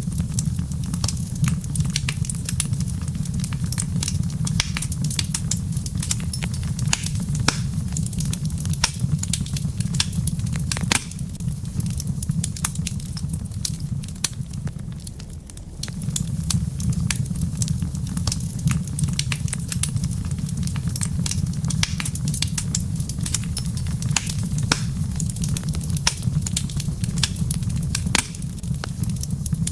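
Wood fire in a fireplace crackling, with many irregular sharp pops and snaps over a steady low rumble that dips for a few seconds midway.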